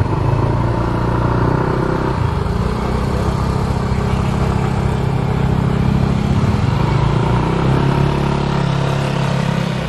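Small motorcycle engines running at low riding speed close by, the engine pitch shifting up and down a couple of times with the throttle.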